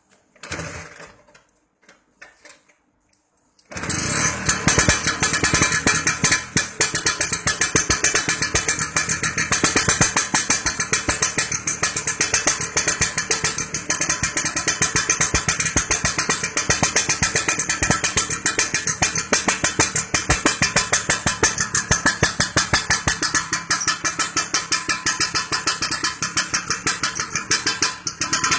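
A few short knocks, then about four seconds in a Vespa Super scooter's two-stroke engine starts and runs loudly through the exhaust being tried out, with a rapid, even train of exhaust pulses.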